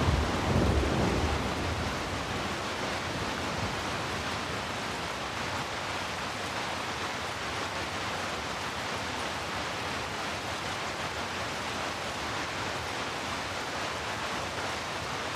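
Steady rain falling as an even hiss, with the tail of a deep thunder rumble dying away in the first second or two.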